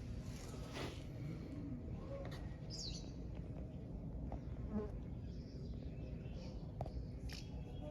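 Steady buzzing whir of a remote-control toy tractor's small electric motor, with a few faint clicks.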